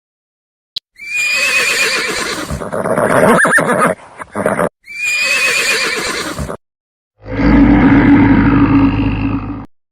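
A horse whinnying with a wavering, shaky pitch, the same whinny heard twice. Then, about seven seconds in, a buffalo's deep, drawn-out low call of a couple of seconds.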